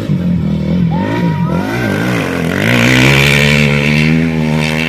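A rally competitor's engine at high revs, its pitch rising and falling with the throttle, then holding a steady drone that grows loudest about three seconds in as the vehicle goes by.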